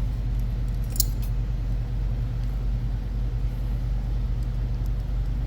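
Steady low electrical hum, with a single light click about a second in.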